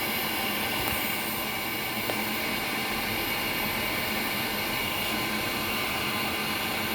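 High-efficiency natural gas water heater's combustion blower running with a steady whirring hum and a few constant whining tones, while the burner has not yet lit.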